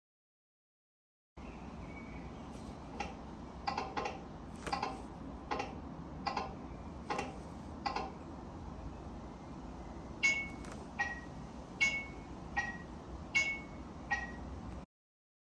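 Niu MQi GT scooter's turn-signal sounder ticking at a steady blink rate, about one tick every 0.8 seconds. After a short pause the sound changes to a two-tone tick-tock alternating a higher and a lower note: a new blinker sound has been selected with the switch sequence.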